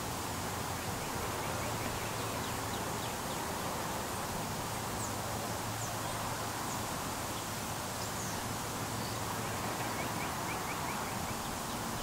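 Steady outdoor background hiss with faint bird calls over it: a quick run of short chirps about two seconds in and again near the end, and a few thin high notes in the middle.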